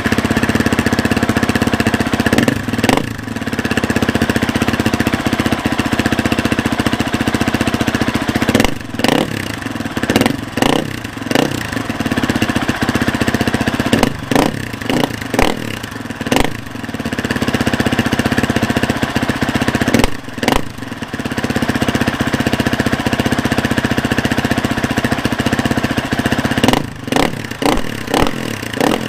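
Husqvarna FE 350s single-cylinder four-stroke dirt bike engine running cold, exhausting through the stock muffler fitted with a Pro Moto Billet Ultra Silent end-cap insert. It idles steadily with repeated short throttle blips, about three seconds in, around nine to eleven seconds, fourteen to sixteen, twenty, and twenty-seven to twenty-eight. It is still pretty loud, and being cold it isn't revving well.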